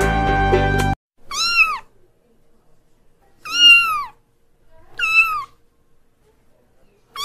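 Kitten meowing: four short, high-pitched meows a second or two apart, each rising then falling in pitch, the last starting near the end. Background music stops about a second in, before the first meow.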